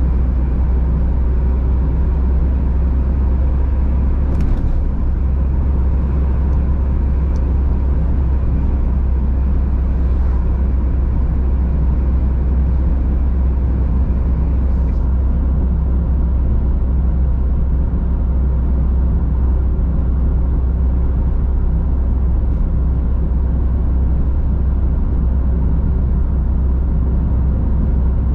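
Steady deep rumble of a car driving along a country road, tyre and engine noise heard from inside the car, with a few faint brief clicks.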